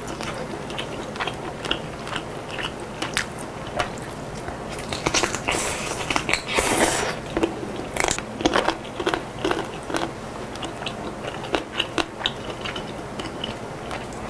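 Close-miked chewing of chicken noodle soup (kalguksu): many short wet smacks and clicks of the mouth, with a louder, noisier stretch about six to seven seconds in.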